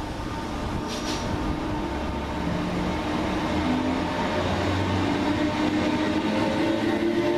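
Class 319 electric multiple unit pulling away from the platform, its motor hum growing steadily louder, with tones that step up and rise slightly in pitch as it gathers speed. A brief high click sounds about a second in.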